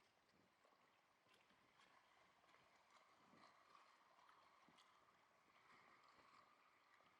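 Faint lake water lapping and gurgling, with small irregular splashes.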